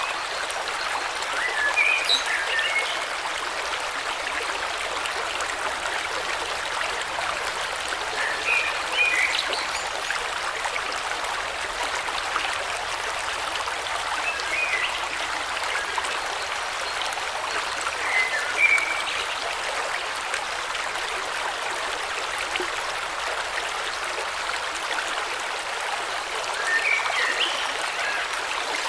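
Steady rush of a flowing stream, with five brief bursts of bird chirping spread through it.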